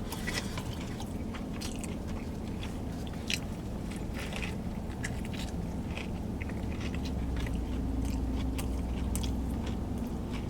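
Close-up chewing and biting of a crispy fried chicken sandwich, the Bacon Ranch McCrispy Deluxe, with scattered short crunchy clicks over a steady low hum.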